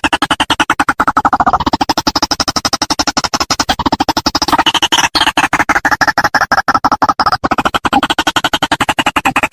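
White-breasted waterhen calls played as a bird lure: a fast, unbroken run of pulsed notes whose pitch shifts every few seconds.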